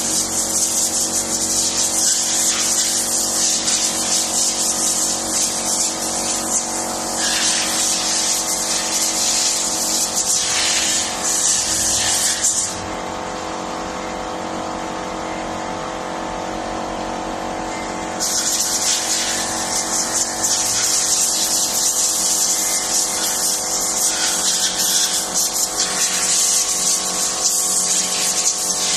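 High-pressure spray hissing in two long bursts, the first stopping about halfway and the second starting again a few seconds later, over a steady machine hum that runs throughout; it is typical of an engine part being blown or sprayed clean.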